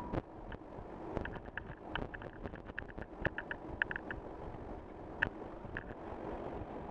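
Road and wind noise in a moving car's cabin, with a few sharp clicks and a scatter of short, high chirps.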